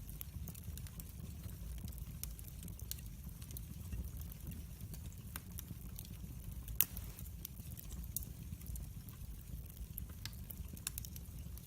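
Wood fire burning in a fireplace, crackling with irregular small pops and one louder pop about seven seconds in, over a low steady rumble of the flames.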